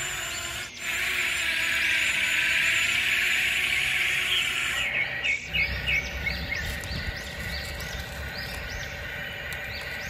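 Small birds chirping repeatedly over a steady outdoor hiss. The chirps grow more frequent about halfway through.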